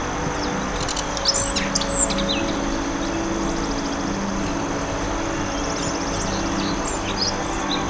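Forest birds chirping: a quick cluster of loud, sharp calls about a second in, then scattered chirps near the end. They sit over a steady rushing background and a steady high trill.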